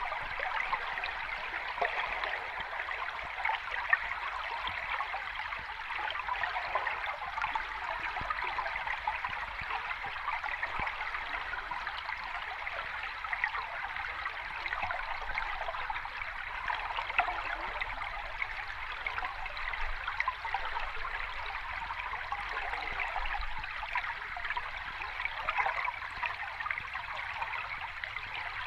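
Sea water washing on a shore, a steady bubbling, fizzing hiss with no distinct wave surges.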